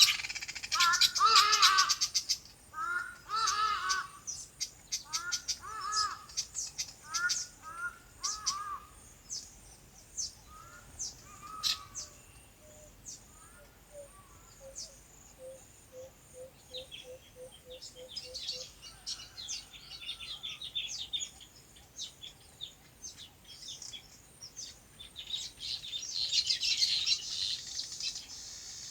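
Several birds calling and chirping. One call is repeated many times through the first third, with high chirps throughout. A quick run of about a dozen evenly spaced lower notes comes in the middle, and a dense burst of chirping comes near the end.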